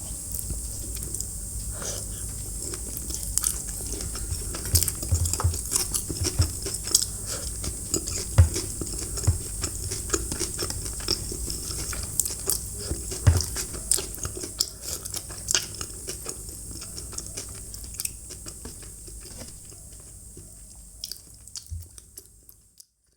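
Close-miked eating: a person chewing and biting food, with many irregular small mouth clicks and crunches. The sound fades out near the end.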